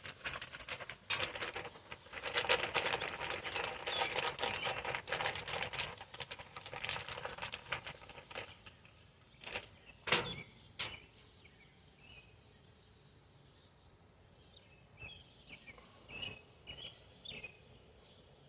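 Plastic zip ties being pulled tight around a wiring harness: a fast run of ratcheting clicks for several seconds, then a few separate sharp clicks about ten seconds in. Faint bird chirps near the end.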